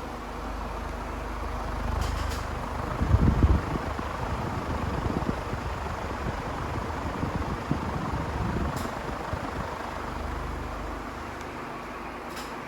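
Primavera Tropical ceiling fan running with a steady rush of air, with uneven low rumbling that is loudest about three seconds in, and a few faint ticks.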